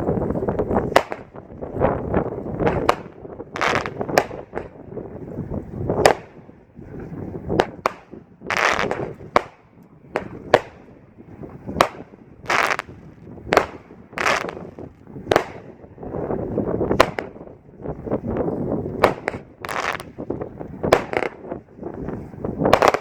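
A 25-shot 200-gram consumer firework cake (United Pyro Buzz Killer) firing its shots in quick succession, about one or two a second, with a hiss between the shots.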